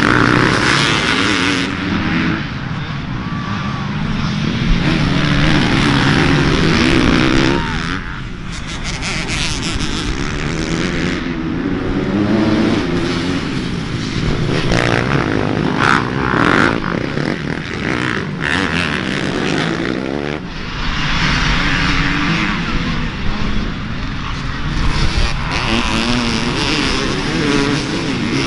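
Dirt bike engines racing, their pitch climbing and dropping again and again with throttle and gear changes.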